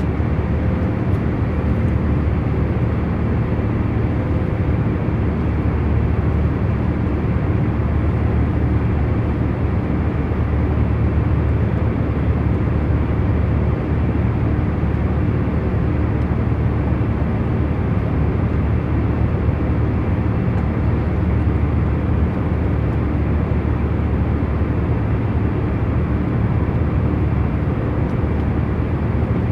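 Airliner cabin noise in cruise flight: a steady low rushing drone with a few faint steady hum tones beneath it, unchanging throughout.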